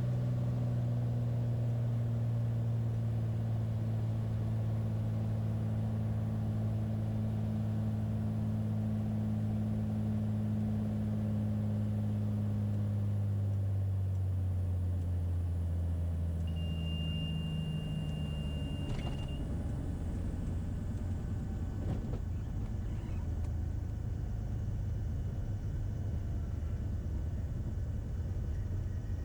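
Beechcraft Bonanza's piston engine and propeller running steadily on short final, heard in the cockpit. About halfway through the engine note drops and fades as power comes back for the landing. A thin high steady tone then sounds for about three seconds, and a couple of faint knocks follow.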